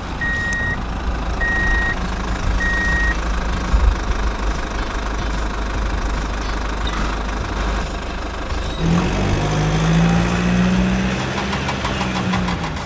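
A high beep repeating about once a second, three times in the first few seconds, over a steady mechanical running noise. About nine seconds in, a steady low motor hum joins.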